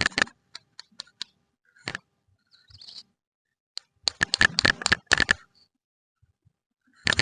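Plastic candy wrappers being crinkled and unpacked by hand: quick runs of crackling clicks, with a few single clicks in between.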